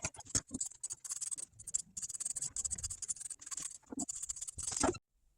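Light, irregular clicks and scratchy rustling of vinyl upholstery pieces being handled once the sewing machine has stopped. Cuts off suddenly about five seconds in.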